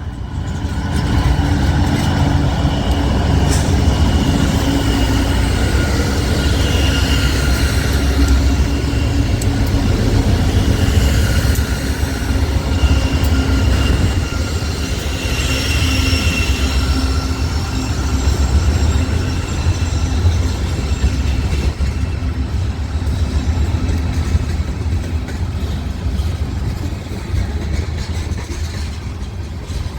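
Westbound freight grain train with multiple diesel locomotives passing close by: a heavy, steady low rumble with engine drone. At times there is a thin high wheel squeal, and the sound eases slightly near the end.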